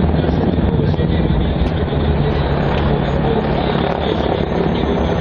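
Helicopter flying a display: a loud, steady noise of turbine engines and rotor.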